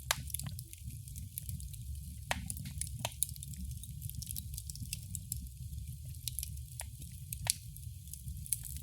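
Wood fire crackling: irregular sharp pops and snaps over a steady low rumble, with louder pops just after the start and about seven and a half seconds in.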